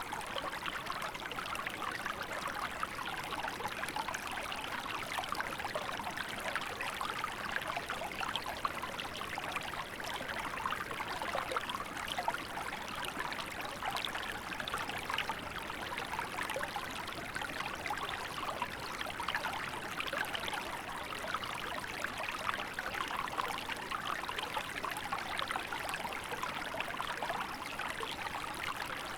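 Small river running over stones, a steady babbling and trickling with fine splashy detail.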